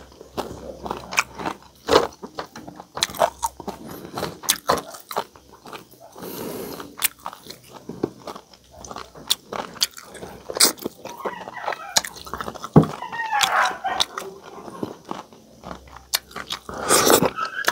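Close-up chewing and biting of crispy pata, with many short crunches and wet mouth clicks.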